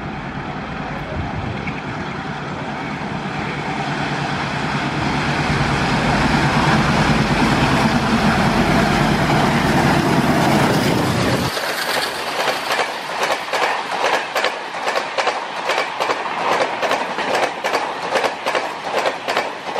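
Twin WDM3D Alco diesel locomotives hauling an express train at high speed, their engine sound building louder as they come through. About twelve seconds in, the deep engine sound drops away and the coaches follow with a quick, regular clickety-clack of wheels over rail joints.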